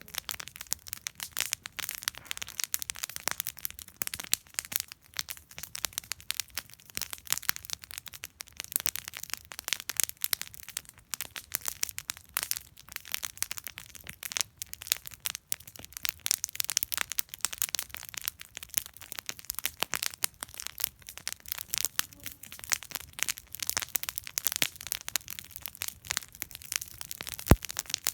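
Wood campfire burning and crackling, with a dense run of small irregular snaps and pops and one sharper, louder pop near the end.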